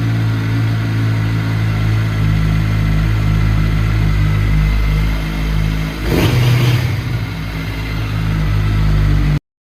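Kawasaki Z900's inline-four engine idling steadily through a replica Akrapovic titanium exhaust with its baffle removed, with one short throttle blip about six seconds in. The sound cuts off suddenly near the end.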